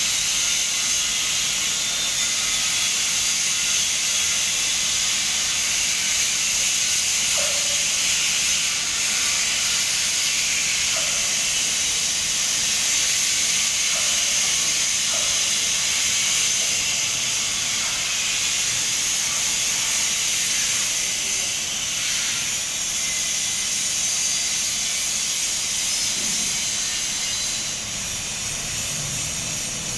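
Electric welding arc hissing steadily while a bead is laid.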